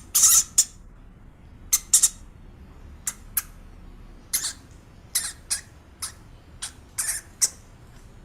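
A small animal's short, high-pitched squeaks or chirps, about a dozen at irregular intervals.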